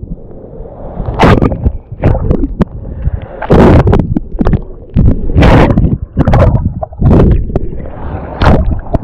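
Water splashing and churning against a GoPro camera at the water's surface, in loud irregular surges with a muffled rumble.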